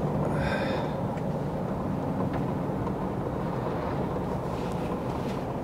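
Steady engine and road noise of a truck driving, heard inside the cab, with a low engine hum. A brief faint high-pitched sound comes about half a second in.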